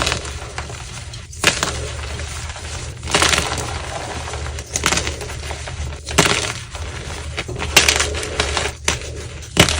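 Blocks of dyed BSN gym chalk being crushed: a series of dry crunches with crumbling between them, a fresh crunch every second or two.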